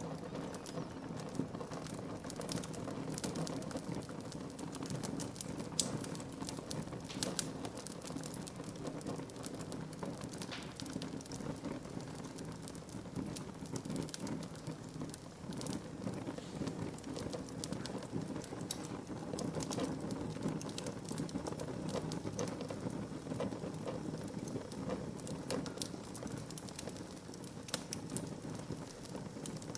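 Wood fire burning in a fireplace: a steady low rushing of flames with irregular crackles and a few sharper pops of the burning wood.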